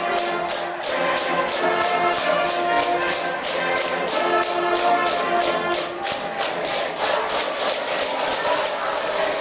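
A school brass band playing a cheering song in the stands: brass carrying the melody in held notes over a steady drum beat of about four strokes a second.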